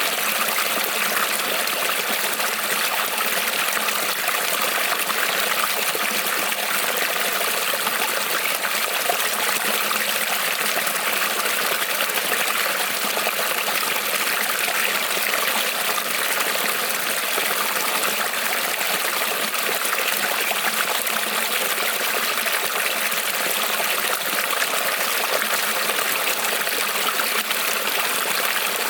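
Small creek rippling and trickling over stones, a steady, unbroken water sound.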